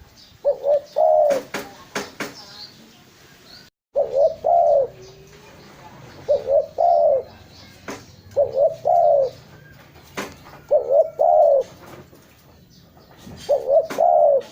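Spotted dove (tekukur) cooing: a short three-note phrase repeated six times, about every two seconds, with a few sharp clicks between phrases.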